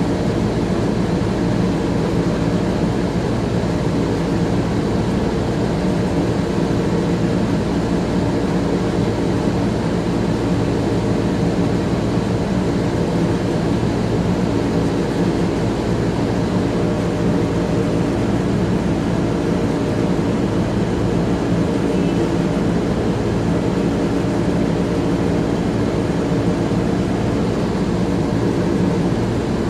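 Inside an Orion VII CNG transit bus: the engine's steady drone mixed with the HVAC blowing, with several steady hum tones under a broad rush of noise.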